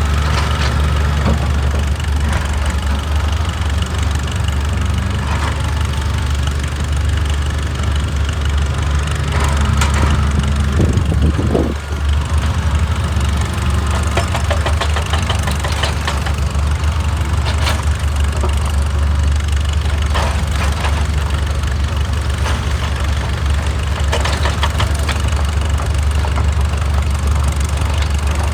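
Excavator's diesel engine running steadily, with scattered knocks and scrapes of rock. There is a brief rising-and-falling whine about twelve seconds in.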